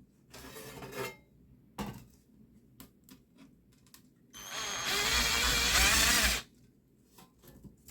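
Electric drill boring through a thin titanium plate to enlarge its small vent holes: a short burst about half a second in, a few clicks, then a louder run of about two seconds past the middle.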